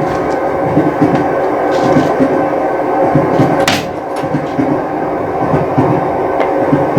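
Train running steadily, with a dense hum of tones and uneven low pulses, and one brief sharp hiss about halfway through.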